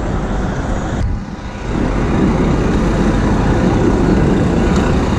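Steady city street traffic noise, a dense rushing hiss with no distinct engine note, which drops away sharply about a second in and comes back louder half a second later.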